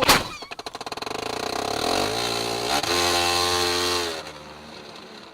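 A sharp knock at the very start, then a vehicle engine revving up, its firing pulses speeding up over about two seconds, held high for about a second, then dying away.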